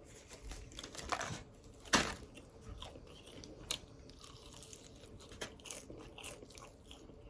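Biting into and chewing crispy fried chicken wings: the fried crust crunches and crackles, loudest in one sharp crunch about two seconds in, with smaller crackles and chewing after.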